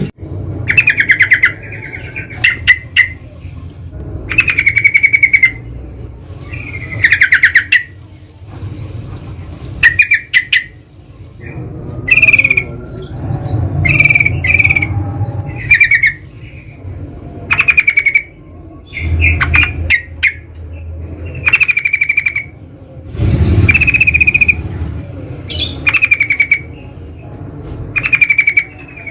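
Yellow-vented bulbul (trucukan) calling in short, loud, bubbly chattering phrases, repeated roughly every two seconds.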